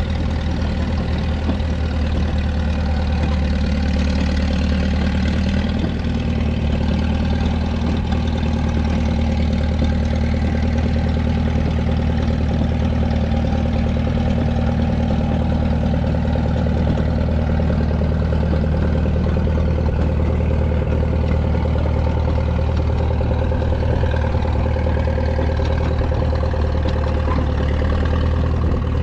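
An engine running steadily at idle: a low, even drone that holds unchanged throughout.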